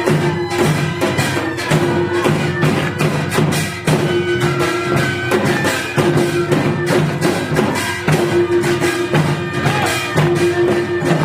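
Korean traditional music for the Jindo bukchum drum dance: fast, dense barrel-drum and percussion strokes over a held low note that stops and restarts every couple of seconds, with a wavering melody above.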